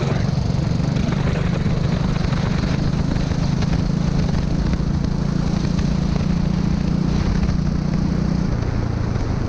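Go-kart engine running at a steady high pitch, dropping to a lower note near the end.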